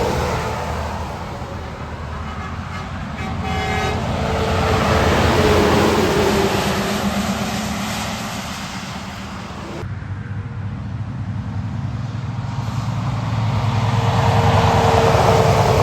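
Heavy trucks passing on a wet highway: engine and tyre noise swells and fades as they go by, with a horn-like tone dropping in pitch as a truck passes near the end. The sound changes abruptly about ten seconds in.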